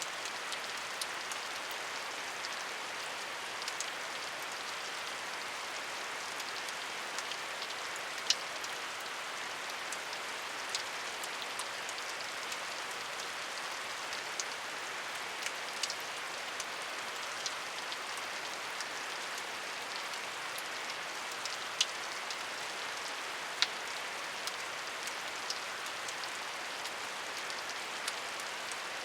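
Steady rain falling, a constant hiss with scattered sharper drops ticking on a surface, a few louder single drips standing out.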